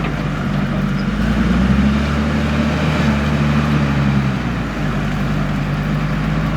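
Heavy diesel machinery running steadily, a low engine drone whose note shifts about two seconds in and again a little past four seconds.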